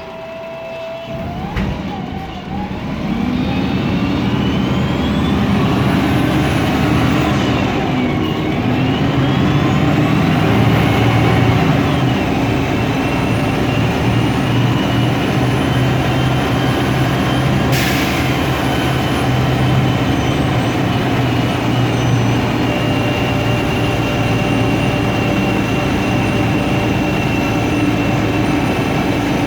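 MAN Lion's Classic city bus pulling away and driving, its MAN E2876 CNG engine running under a whine from the Voith DIWA 864.3 automatic gearbox. The whine rises in pitch over the first several seconds, dips and climbs again, then holds steady. There is a brief hiss a little past halfway.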